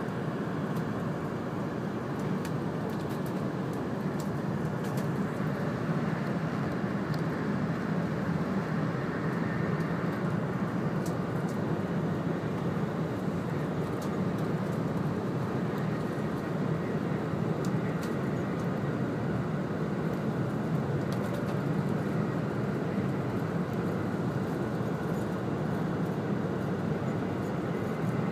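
Steady rumbling running noise heard from inside the passenger cabin of a 100 series Shinkansen train travelling along the line, with a few faint clicks.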